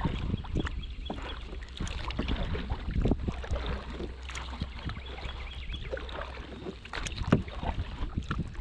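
Kayak paddling on a river: paddle blades dipping and splashing with irregular small splashes and knocks, over a steady low rumble of wind on the microphone.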